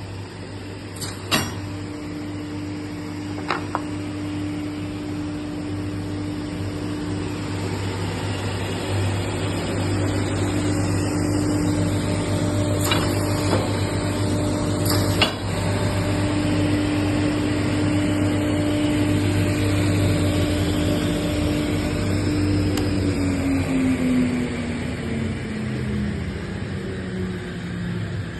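LTT Y45 sliding-table panel saw running, with a steady whine from the motor and blade over a low hum and a few sharp clicks. Near the end the whine falls steadily in pitch as the machine spins down.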